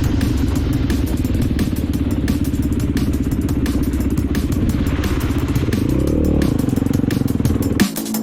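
Off-road vehicle engine running with a steady note, its pitch rising and falling once about five seconds in. Electronic music with a sharp beat cuts in near the end.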